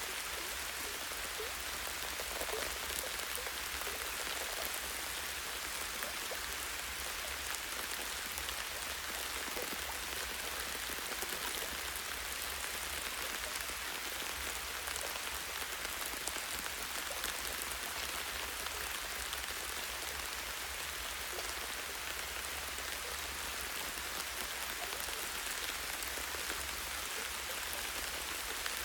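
Light, steady rain falling on a tree's leaves and branches: an even hiss with scattered individual drop ticks.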